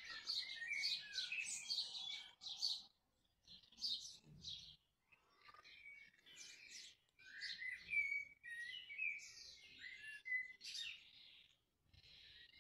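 Small birds chirping and singing in quick, high twittering phrases with short gaps, fairly faint.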